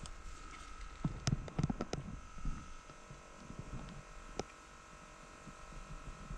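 Low thumps and rustling with a few sharp clicks over a faint steady hum: movement and gear-handling noise at the microphone.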